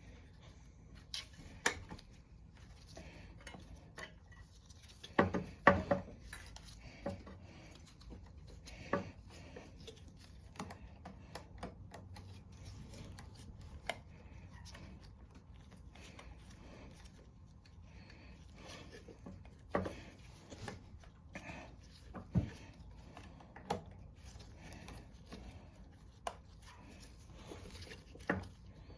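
Scattered clinks and knocks of hand tools and small metal parts being handled, with a louder cluster about five seconds in, as the carburetor and linkage are refitted to a Tecumseh mower engine.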